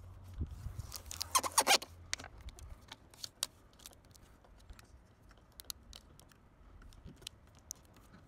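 Thin aluminum foil auto body tape crinkling and crackling as fingers fold it under a panel edge and press it down. There is a louder run of crinkling about a second and a half in, then scattered small crackles.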